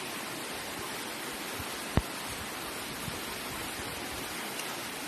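Steady rushing of a nearby stream or waterfall, an even hiss with no change in level. A single sharp click about two seconds in.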